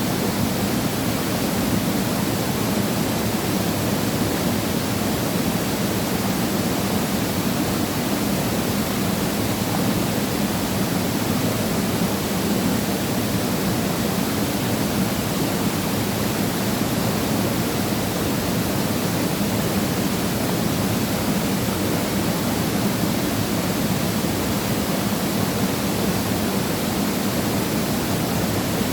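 Waterfall pouring steadily: a constant, even rush of falling water with no pauses.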